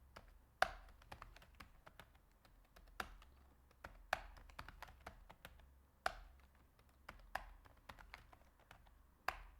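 Computer keyboard typing at a faint level: irregular keystrokes with a louder clack every second or so, as program code is typed in.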